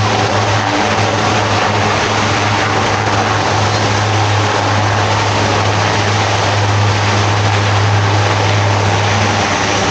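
Lockheed Martin C-130J Super Hercules 'Fat Albert' flying under the power of its four six-bladed turboprops, making a loud, steady propeller hum with a strong low tone.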